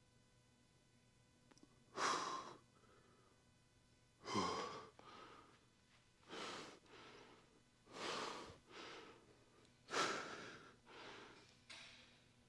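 A man breathing hard, with deep, noisy breaths in and out about every two seconds: catching his breath after heavy exertion.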